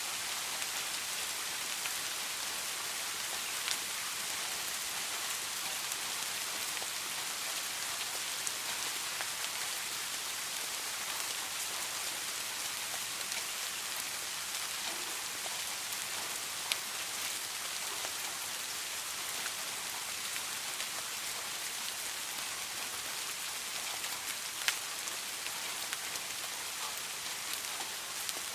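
Soft rain falling steadily, an even patter with a few louder single drops standing out now and then.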